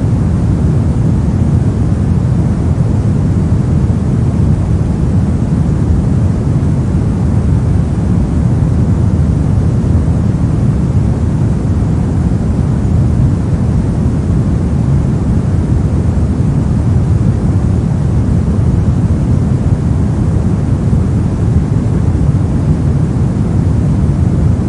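Steady synthetic pink noise: an even, unchanging hiss weighted toward the low and middle range, used as a noise-blocking background.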